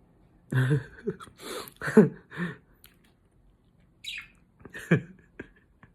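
Pet budgerigars chirping in short, separate calls close to the microphone, mixed with a few short wordless vocal sounds from a person.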